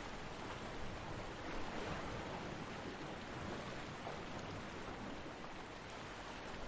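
Ocean surf washing on a beach: a steady rushing wash of waves with a slight swell about a second and a half in and a gentle easing near the end.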